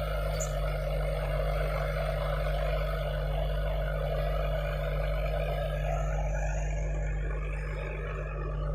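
IVECO 6x6 heavy truck's diesel engine running steadily, with the higher hiss thinning out about six seconds in.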